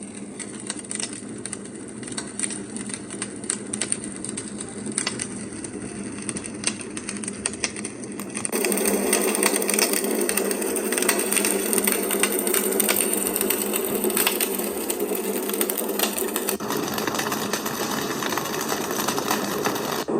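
Magicteam white noise machine playing its built-in soothing sounds through its speaker. It switches abruptly to a different sound about eight seconds in and again near the end. The first sound is a crackly hiss full of quick clicks, and the second is a louder, fuller hiss.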